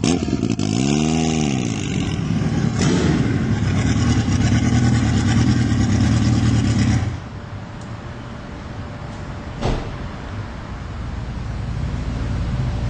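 Turbocharged, modified Suzuki Hayabusa's inline-four engine revved once, rising and falling about a second in, then running steadily. About seven seconds in it drops away to a quieter low rumble, with a single sharp click about ten seconds in.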